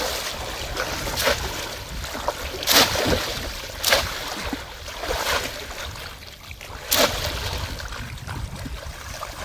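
Water splashing in shallow water: four sharp splashes over a steady rushing background, the loudest about three seconds in.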